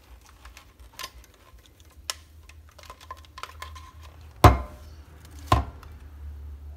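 Kitchen clatter of an electric hand mixer being picked up and readied to beat eggs: light clicks and two sharp knocks about four and a half and five and a half seconds in, over a faint low hum.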